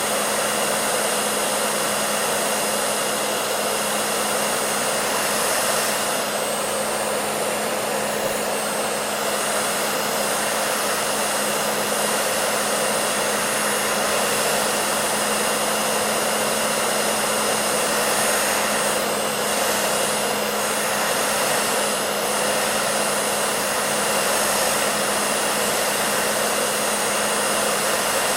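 Hair dryer running steadily: a continuous rush of blown air with a steady motor hum under it, unchanging throughout.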